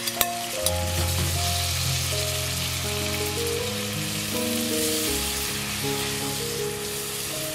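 Floured chicken breasts frying in butter and soy sauce in a nonstick pan, a steady sizzle, with a couple of clinks of a spoon on a glass bowl right at the start. Soft background music plays underneath.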